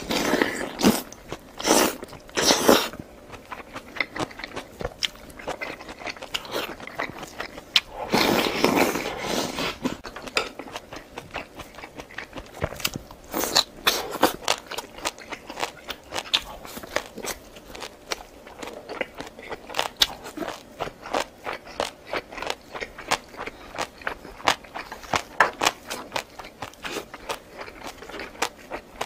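Close-up eating sounds: crunching and chewing with many short, sharp mouth clicks. A louder, noisier stretch comes about eight seconds in.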